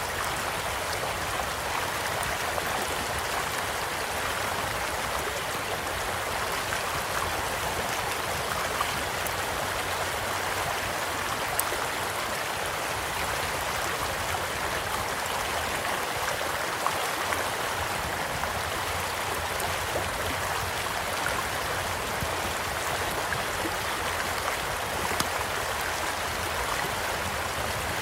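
Small stream flowing steadily with an even rush of water, with a few scattered sharp pops from a crackling wood campfire.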